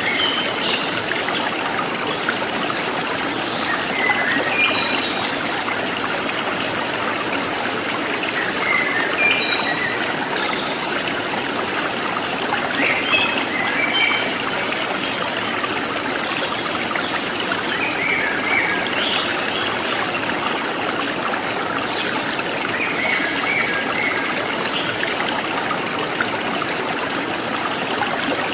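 Forest stream trickling and gurgling steadily, with short high bird chirps every few seconds.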